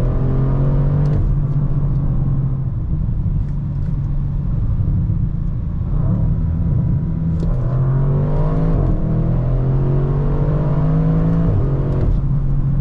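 Audi RS6 Avant's 4.0-litre twin-turbo V8 under acceleration, its note climbing and dropping back with an upshift about a second in, then climbing again and shifting up once more around nine seconds in before running steadily.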